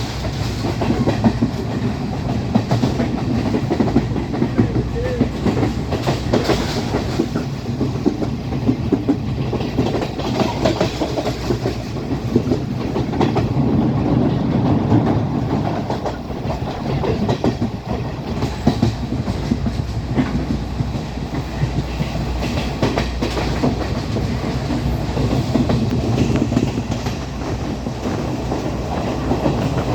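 Sri Lanka Railways Class S12 diesel multiple unit running along the line: a steady rumble of wheels on rail with a continuous clickety-clack of rail joints.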